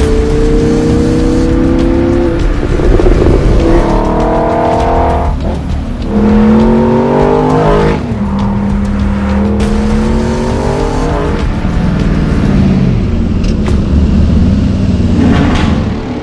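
Car engine accelerating hard through the gears, its pitch climbing steadily and then dropping sharply at each upshift, several times over, with music underneath.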